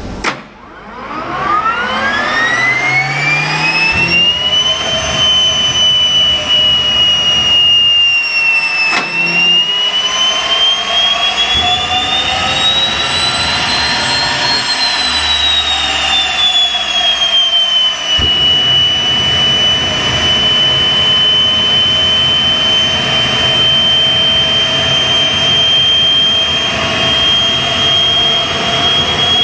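Old turbine engine starting: its whine climbs steeply over the first few seconds as it spools up, then levels off into a steady high whine. Midway the pitch dips briefly, rises again and falls back, then holds steady.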